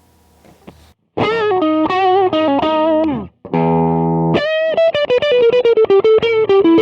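Electric guitar played through a Donner MultiPad-100 multi-effects unit on a distorted overdrive amp model. After about a second of quiet it plays a run of single notes, a brief held chord midway, then a faster lead line.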